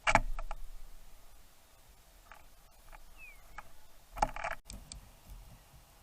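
Two bursts of sharp clattering knocks and scratching, one at the start and one about four seconds in, with a single faint, short, falling bird chirp between them.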